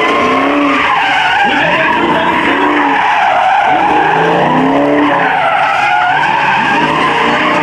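A car's tyres squealing without a break in a burnout or drift, over the engine revving up and down.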